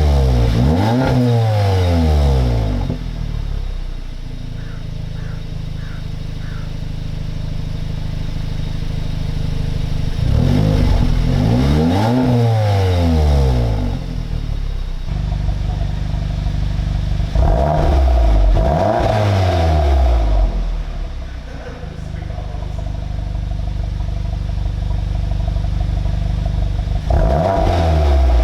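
Audi S3's turbocharged four-cylinder engine through an AWE SwitchPath exhaust, revved up from idle and falling back about four times, idling steadily between the revs.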